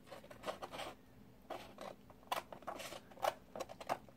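Small scissors snipping a piece off the end of a roll of washi tape: a series of short, crisp snips and rustles of the tape.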